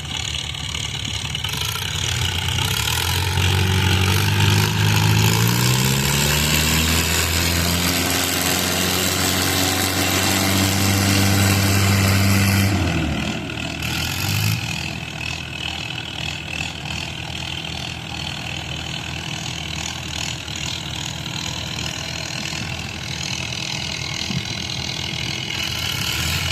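Mahindra diesel tractor engine revving up over several seconds and holding at high revs. About halfway through it drops sharply back to a lower, steady running speed.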